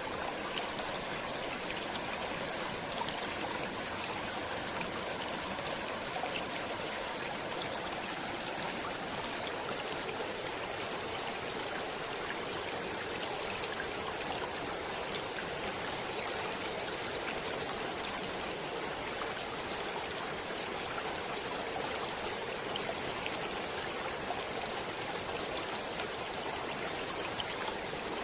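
Stream water flowing steadily over stones, a continuous rush with small trickles and splashes.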